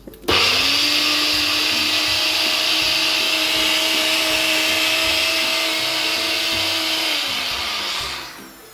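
Electric blender grinding coriander leaves, cumin, salt and milk for a chutney: the motor starts suddenly, runs at a steady pitch for about seven seconds, then winds down with a falling pitch as it is switched off.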